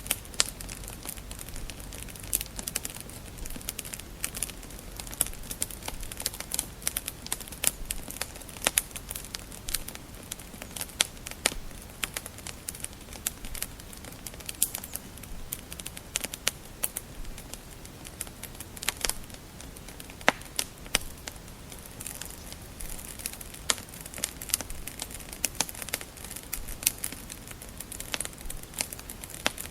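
Wood fire crackling in a fireplace: irregular sharp pops and snaps, several a second, over a soft steady rumble of the flames.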